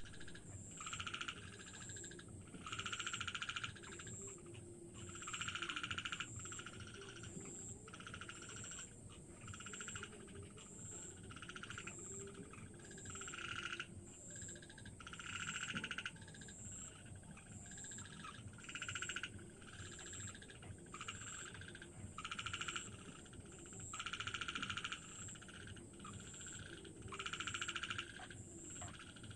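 Frogs calling in repeated pulsed trills, each under a second long and coming every one to two seconds, over a constant thin high whine.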